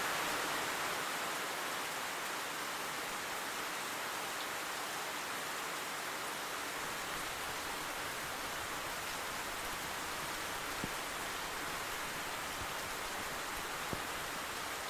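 Steady rain falling, an even hiss, with two light ticks late on.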